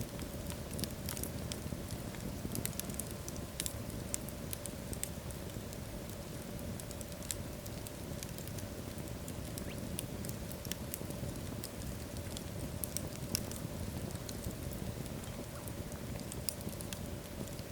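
Wood fire burning in a fireplace: irregular sharp crackles and pops from the logs over a steady low rush of the flames.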